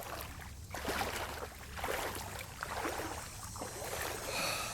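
Legs wading through shin-deep floodwater, a swish and splash with each stride, over a low rumble of wind on the microphone.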